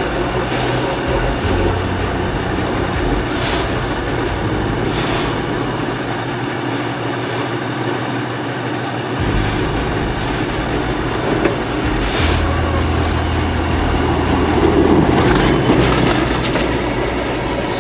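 Steady heavy-vehicle running and road noise, with short hisses every second or two and a low hum that drops out and returns.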